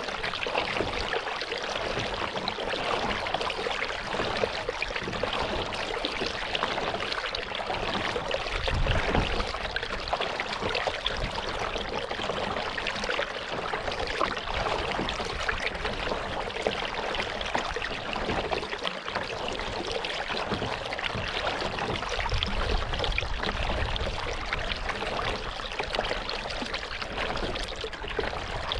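Lake water trickling and splashing around a kayak as it is paddled. There are a couple of low rumbles, about 8 seconds in and again around 22 seconds.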